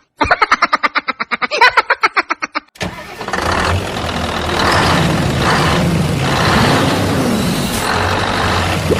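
A vehicle engine cranks in a rapid, even pulse for about three seconds, then catches and runs steadily.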